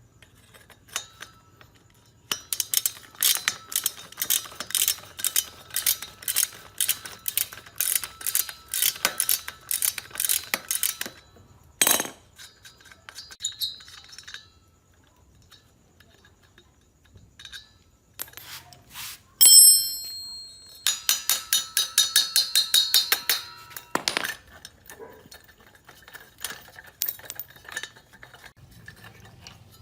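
Metal clinking and tapping from tools on small engine parts. A run of light metallic strikes comes about twice a second, then one sharp knock. About two-thirds of the way in there is a short ringing clang, followed by a quicker run of strikes.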